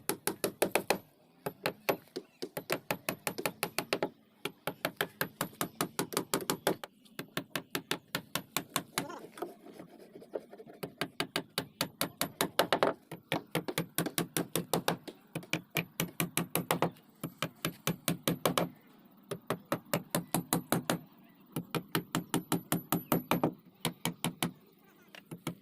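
Rapid, even hammer blows on wood, about eight a second, coming in runs of one to a few seconds with short pauses between.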